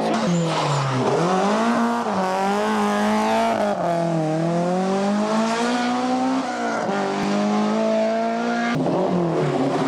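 Rally car engine revving hard on a stage, its pitch climbing and dropping again and again as the driver changes gear and lifts off, with sharp dips about a second in and near the end.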